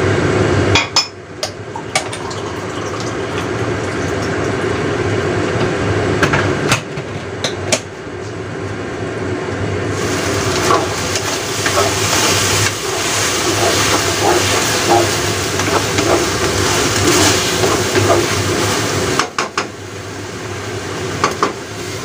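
Shiitake mushrooms sizzling and bubbling in a stainless steel wok as a wooden spatula stirs and knocks against the pan. The hiss of the frying grows louder about halfway through the stirring and drops again near the end. A steady low hum runs underneath.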